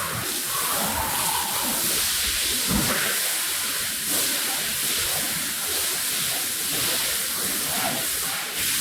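Steady hiss of a pressure-washer jet spraying water onto a soaked rug.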